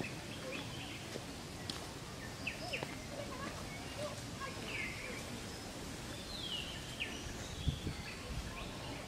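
Birds calling in the trees: scattered short chirps and a few downward-sliding whistles, over a steady background of outdoor noise.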